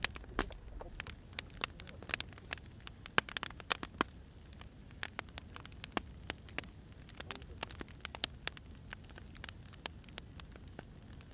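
Firewood burning, crackling with irregular sharp pops over a low steady rumble of the fire. The pops come thickest at about two to four seconds in.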